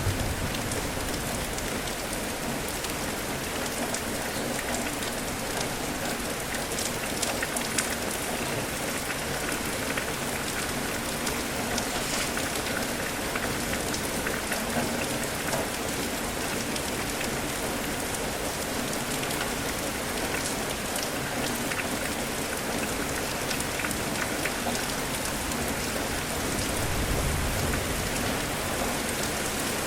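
Steady rain falling, an even hiss with scattered drops ticking, and a brief low rumble near the end.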